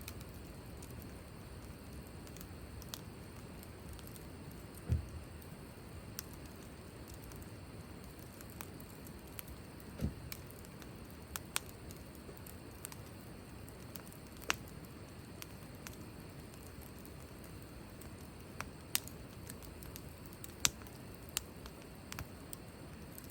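Wood campfire burning with a steady low rumble and sharp crackling pops at irregular intervals; two dull low thuds come about five and ten seconds in.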